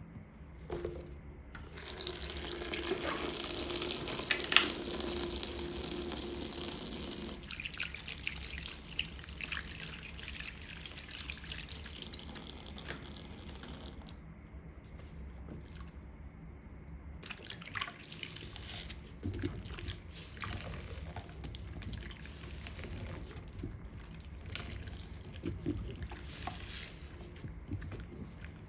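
Tap water running into a sink while makeup sponges are washed. The flow stops about halfway through, followed by the intermittent wet squelching and clicking of the soaked sponges being handled.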